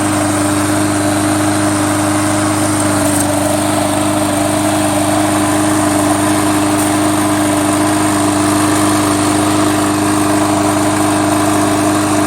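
Lawn mower engine on a remote-control push mower running steadily at an even pitch.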